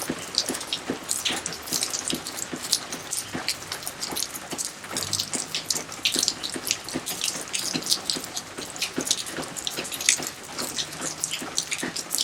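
Rain falling steadily: many irregular drops splashing over a constant wash of water noise.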